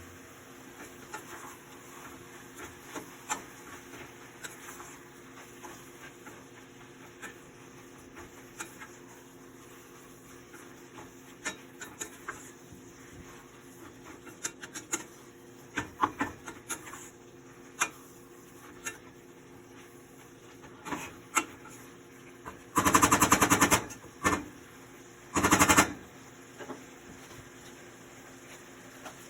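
Scattered clicks and knocks, then two loud bursts of rapid clicking about three quarters of the way through.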